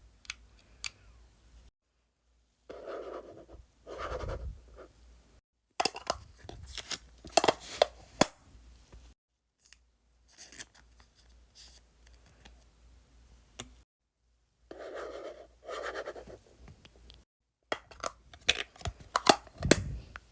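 Packing of photocards: crinkling, rustling and scraping of plastic sleeves and paper wrapping, with sharp clicks, in short clips broken by sudden cuts to silence.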